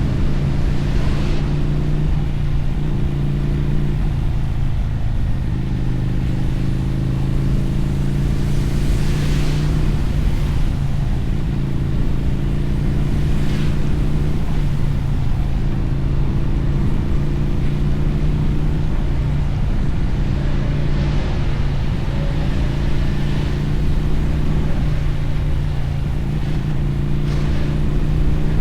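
Motorcycle engine and exhaust running steadily at cruising speed, with the revs easing off briefly several times, over a hiss of wind and wet-road tyre spray.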